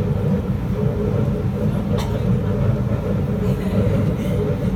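Steady rumble of a Kawasaki C751B metro train running on the line, heard from inside the carriage, with a single sharp click about two seconds in.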